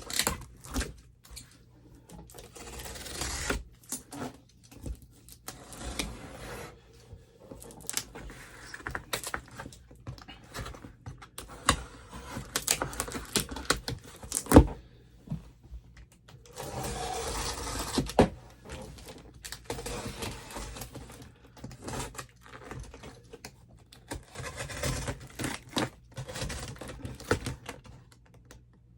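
Cardboard shipping packaging being handled and pulled apart: scraping, rustling and tearing, with frequent knocks and clicks and one sharp knock about halfway through.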